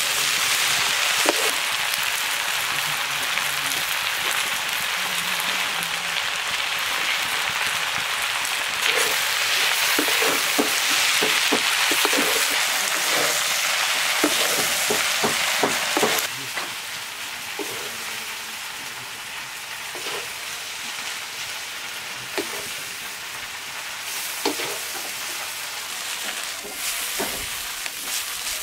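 Food sizzling as it fries in a pan, with frequent taps and scrapes of a stirring utensil. The sizzle drops noticeably about sixteen seconds in.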